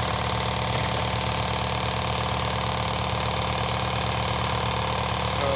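Shop air compressor running steadily with a fast, even pulsing as it refills its tank after being switched back on.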